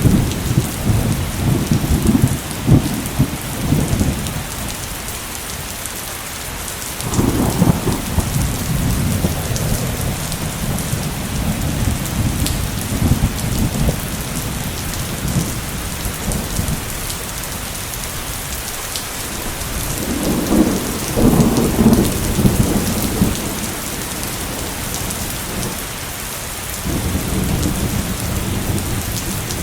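Heavy rain pouring steadily, with repeated long rolls of thunder rumbling over it: one right at the start, a long one from about seven seconds in, another around twenty seconds, and a weaker one near the end.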